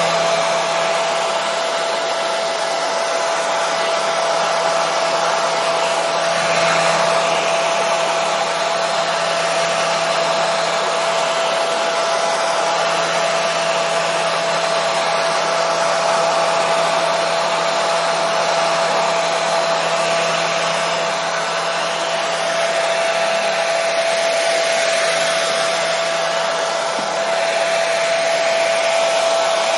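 Hair dryer running continuously as white noise. It makes a steady airy rush with a constant motor whine, and the loudness swells gently now and then.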